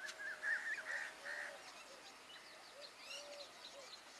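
Several birds calling faintly: a warbling song in the first second and a half, then a run of short, low repeated notes with scattered high chirps.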